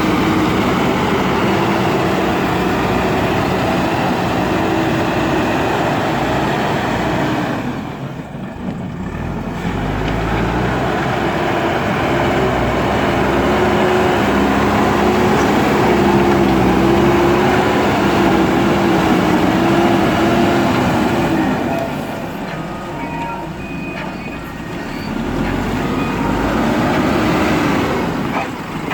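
JCB backhoe loader's diesel engine running under working load, its pitch rising and falling as the machine works. It eases off briefly about eight seconds in and again for a few seconds past twenty seconds.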